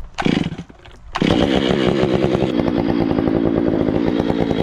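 Chainsaw engine running steadily at high speed, cutting in abruptly about a second in after a short sound at the start.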